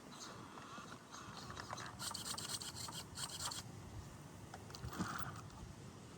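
Rubbing and scraping handling sounds, with a rasping burst of quick ticks lasting about a second and a half, starting about two seconds in, and a single knock near the end.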